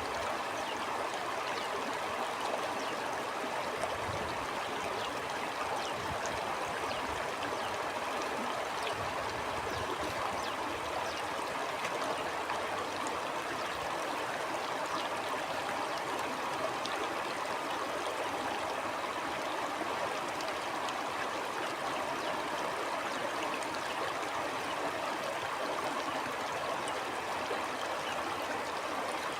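Stream of running water flowing steadily: an even rushing and splashing that holds the same level throughout.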